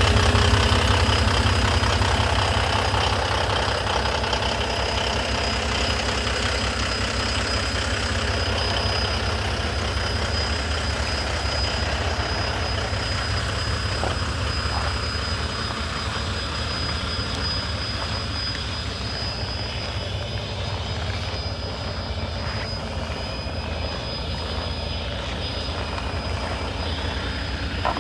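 Diesel engine of a 2016 Volvo VNL semi tractor running at idle, a steady low rumble that is louder in the first few seconds and then settles.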